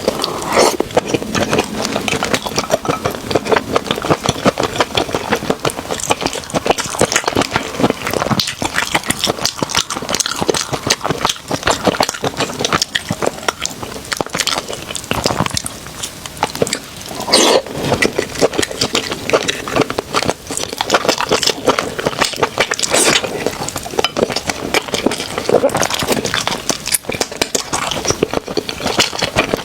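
Close-miked chewing and eating: a dense, continuous run of crackly clicks, with a few louder bursts in the middle.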